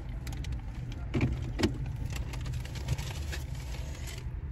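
Car engine running, a steady low rumble heard from inside the cabin, with a few faint clicks over it.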